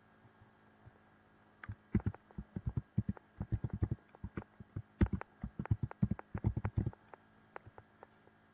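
Typing on a computer keyboard: quick irregular runs of key strokes starting about two seconds in and going on to about seven seconds, with a few stray keys near the end, as a password is entered.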